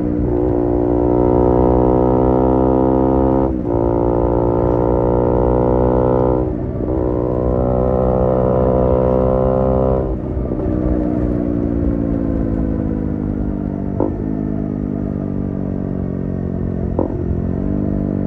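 KTM Duke 125's single-cylinder engine through an IXIL IXRace MK2 aftermarket exhaust, accelerating hard through three gears, the revs climbing and dropping sharply at each upshift. It then rolls off and slows, the revs falling steadily, with two quick downshifts near the end.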